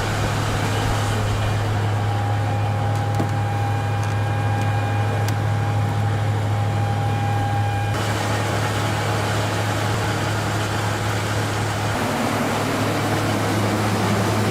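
Ka-27M coaxial-rotor helicopter running, a steady loud machine drone with a constant low hum, its higher noise changing abruptly about eight seconds in.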